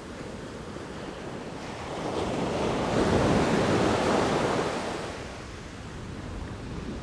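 Sea waves breaking on the shore: the surf swells to a peak about three to four seconds in and then draws back, over a steady background wash with some wind.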